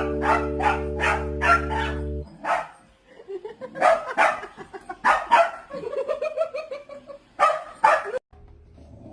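A dog barking repeatedly in short, sharp barks, about three a second at first and then more spaced out, with a few drawn-out calls in between. A sustained musical chord plays under the barks for the first two seconds.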